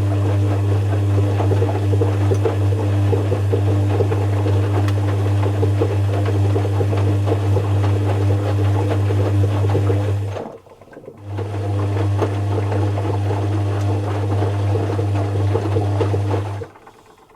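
Zanussi FC1000 compact washing machine running with a loud, steady low hum over a rough churning sound. It stops about ten seconds in, starts again under a second later, then stops shortly before the end.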